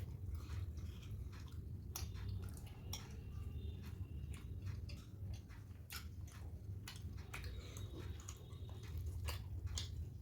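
Close-up chewing of soft poori with wet potato and chickpea curry: irregular moist smacking clicks of the mouth. A low steady hum lies underneath.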